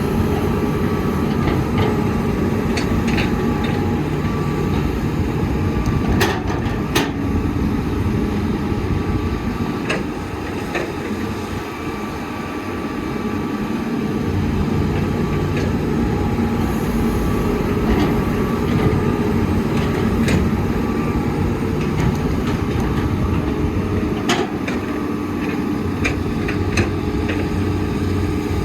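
Heavy diesel earthmoving machinery running steadily, an excavator working alongside dump trucks, with sharp metallic clanks and knocks scattered through it. The engine drone eases for a few seconds near the middle, then comes back up.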